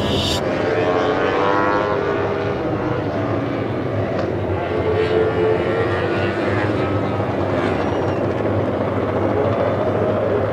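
Racing motorcycle engines running at high revs, their pitch rising and falling as the bikes pass, over a steady rumble.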